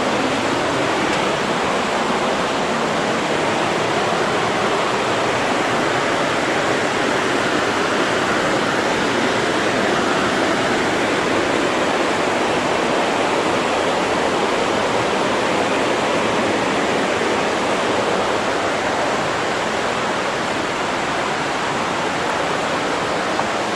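Buttermilk Falls, a cascade on the Raquette River, rushing steadily: an even, unbroken sound of falling water.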